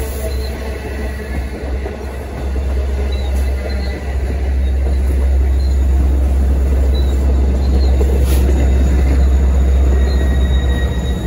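LIRR C3 bilevel coaches rolling past with a deep diesel rumble from their DE30AC locomotive, growing louder from about four seconds in as the locomotive nears. Faint, thin, high wheel squeal comes through above the rumble.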